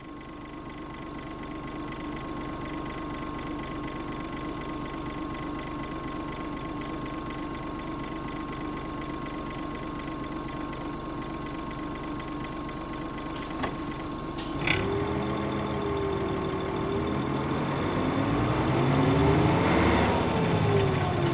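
Nissan Diesel UA bus's PF6HTA six-cylinder diesel idling steadily. About fourteen seconds in come a few sharp clicks and a short hiss, then the engine revs up and pulls away, its pitch rising and falling several times.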